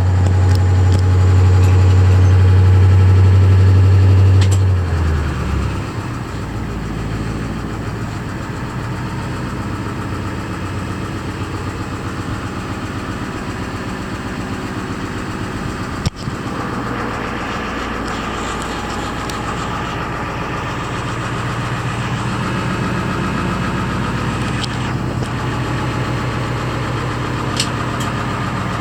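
1993 International 4600 dump truck's engine running after a cold start. It holds a steady, higher speed for about the first four seconds, then drops back to an even idle, with a brief click about halfway through and a few sharp ticks near the end.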